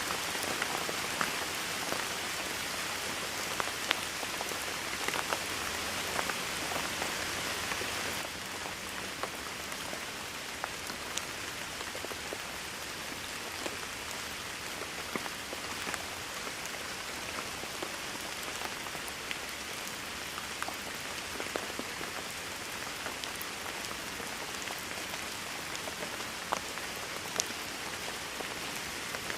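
Steady rain: an even hiss of rainfall with scattered individual drops ticking sharply through it. About eight seconds in it turns a little quieter and stays there.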